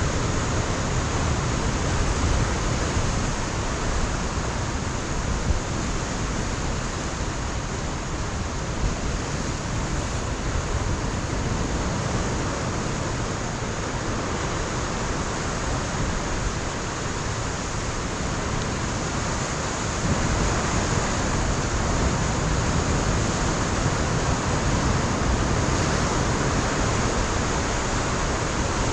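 Ocean surf breaking on a rocky shore: a continuous rush of waves and spray that swells a little louder about two-thirds of the way through.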